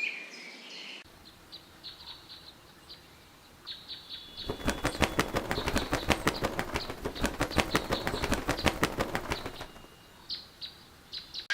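Young buzzard flapping its wings hard and fast for about five seconds, many wingbeats a second, the wing exercises of a fledgling not yet ready to fly. Faint high bird chirps come before and after the flapping.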